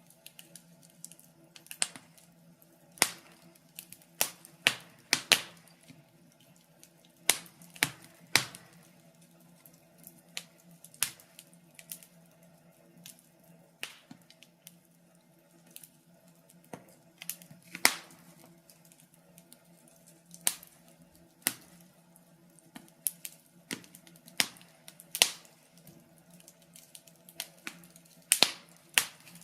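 Wood fire crackling in a fireplace, with irregular sharp pops and snaps, some loud and some faint, over a faint steady low hum.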